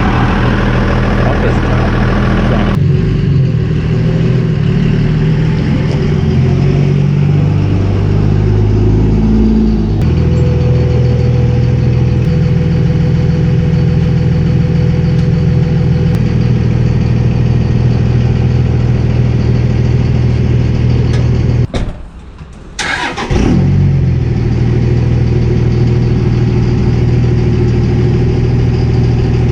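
A motor-vehicle engine running steadily at idle for the whole stretch, changing character abruptly a few times and cutting out briefly about two-thirds of the way through.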